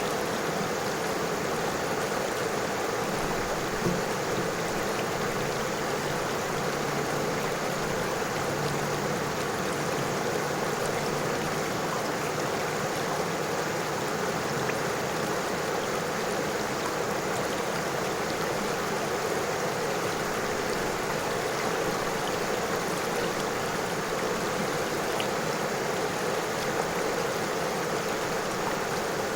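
River water flowing steadily over stones, a continuous rushing murmur with small splashes and trickles.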